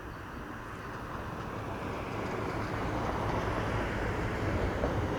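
Steady rumble of vehicle engines, slowly growing louder.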